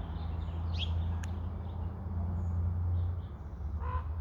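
Small birds chirping briefly over a steady low rumble, with a sharp click about a second in. Near the end a larger bird starts a harsh, honking call, the first of a regular series.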